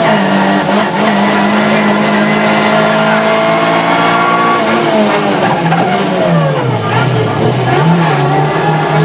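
Rally car engine heard from inside the cabin, running hard at high revs. About five seconds in the revs fall away for a corner, then pick up again near the end.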